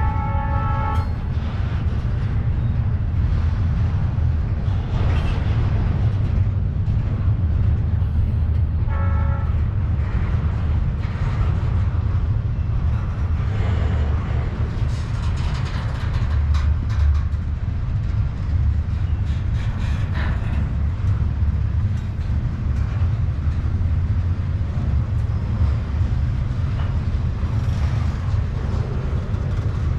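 Double-stack intermodal well cars of a freight train rolling past: a steady, heavy low rumble of steel wheels on rail, with rattles and clanks from the cars. Two brief steady tones sound, one right at the start and another about nine seconds in.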